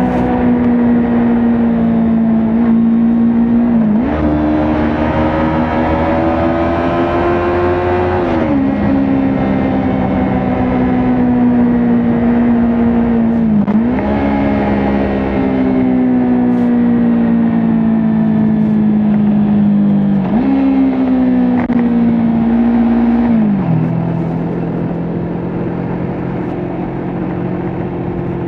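Kawasaki Ninja 400 parallel-twin engine heard from the rider's position while riding. Its pitch steps up and down sharply several times with gear changes and throttle, climbing steadily in between. Near the end it drops to a lower, steady running note.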